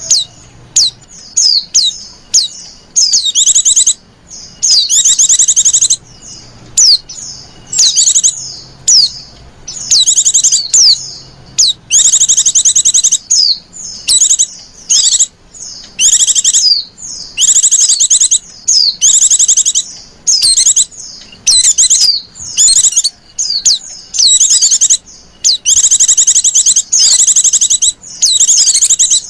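Female pleci (white-eye) giving fast, high, thin chirps and short rapid twittering trills in quick succession, the needy, coaxing calls used as a lure to draw other pleci.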